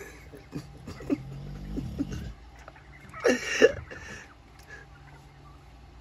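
Wild turkeys calling, with one loud, short, rough call about three seconds in. A low steady hum sounds under the first two seconds.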